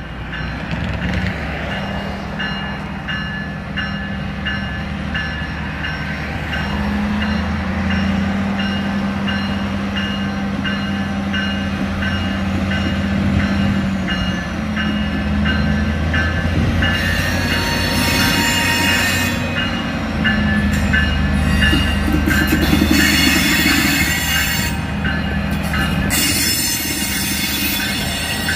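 Genset switcher locomotive's diesel engine running steadily as it hauls autorack cars slowly past, with a regular ringing repeating a little faster than once a second through the first half. From about two-thirds of the way in, loud high-pitched wheel squeal comes and goes as the cars roll by.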